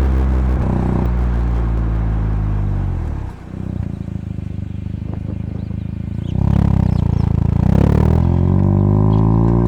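Mazda RX-7 FC3S's 13B twin-rotor rotary engine running through a Knight Sports Regal Sports aftermarket muffler while driving. About three seconds in, the note drops and falls in pitch as the throttle eases off. About six seconds in it gets louder again and climbs in pitch under acceleration, with a brief break near eight seconds before it rises again.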